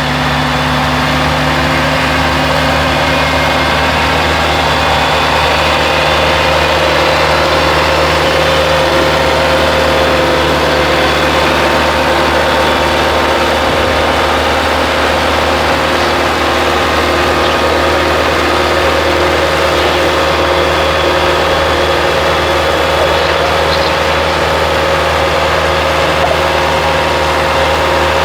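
An engine running steadily at a constant speed, with steady higher-pitched machine tones over it.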